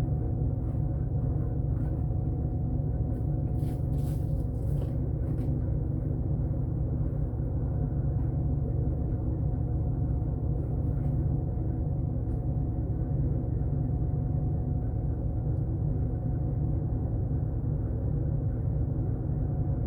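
Pickup truck engine running steadily at low speed, with a few faint clicks or knocks in the first few seconds.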